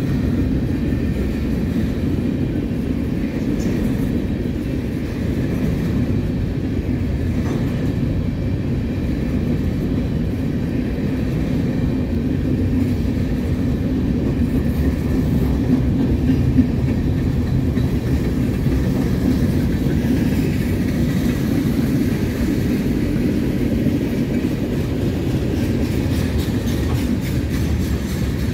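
Freight train of covered hopper and tank cars rolling past at a steady speed: a continuous, even rumble of steel wheels on the rails.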